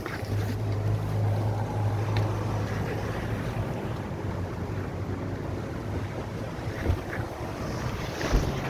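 A motor running with a steady low hum, under wind and water noise.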